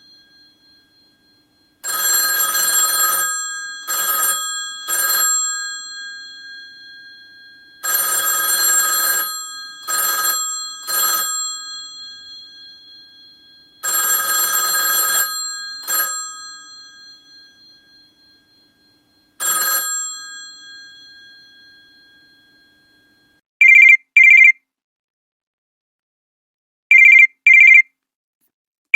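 Old telephone's bell ringing in a repeating pattern of one long ring and two short rings, each ring dying away slowly, the pattern coming three times and then a last short ring. About 24 seconds in it gives way to an electronic phone ring: short beeps in pairs at one high pitch.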